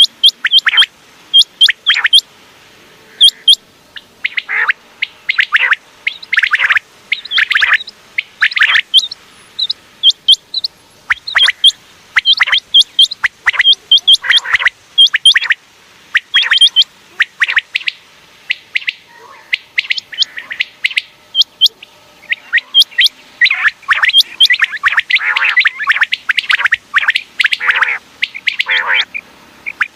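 Common quail calling over and over: short, sharp high notes in quick groups of two to four, mixed with lower, harsher calls.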